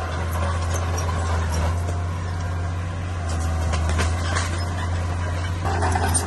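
Bulldozer's diesel engine running steadily with a deep drone, with a few scattered clanks; the engine note grows louder in the middle range near the end.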